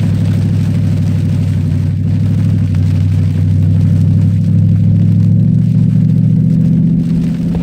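Cadillac STS-V's supercharged V8 running steadily at a held speed, its pitch stepping up slightly about five seconds in as it pulls a little harder.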